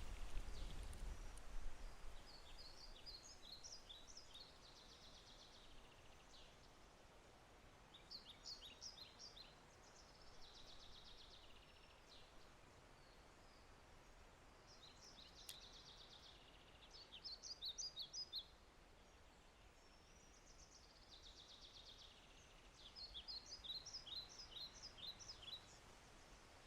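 A songbird singing quiet phrases of rapid high chirps alternating with buzzy trills, every few seconds, over a faint steady hiss. A low rumble fades out in the first two seconds.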